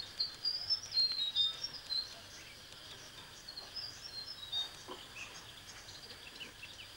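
Small birds chirping in quick, short, high notes, busiest in the first two seconds and then scattered, over a faint steady outdoor hiss.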